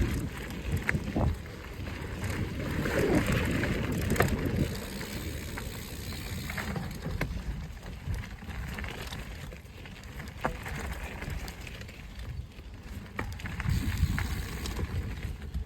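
Mountain bike rolling along a dirt trail: a low rumble of tyres and wind on the microphone, with scattered sharp clicks and rattles from the bike over the bumps, swelling twice.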